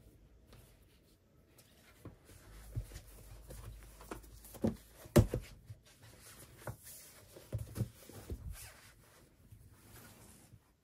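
Handling sounds in a small room: scattered light knocks and scrapes, the sharpest knock about five seconds in.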